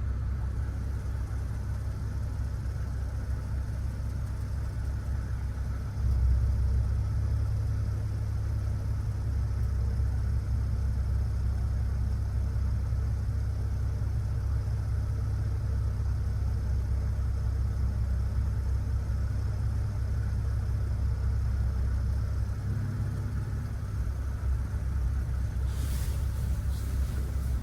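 Straight-piped, catless BMW 540i B58 turbocharged inline-six idling with a steady low drone. It gets louder about six seconds in and dips briefly near the end.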